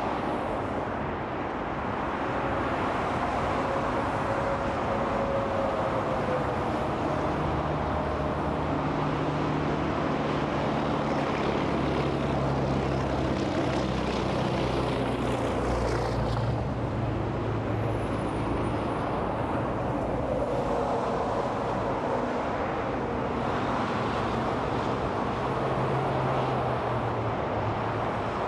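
Steady interstate freeway traffic: a continuous wash of tyre noise with the low engine hum of heavy trucks, and twice a tone that slides down in pitch as a vehicle passes.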